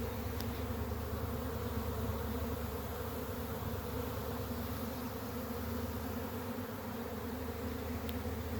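A honey bee swarm leaving its hive: the steady, loud hum of thousands of bees in flight.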